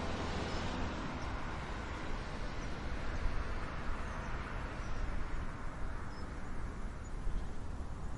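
Wind blowing with an uneven low rumble, and a few faint high chirps from distant birds in the first half.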